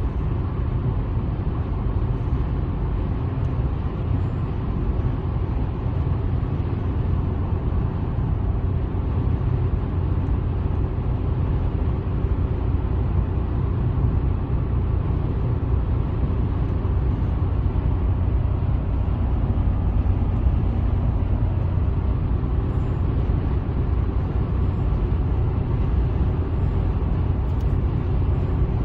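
Steady road and engine noise of a car driving, heard from inside the vehicle: a constant low rumble.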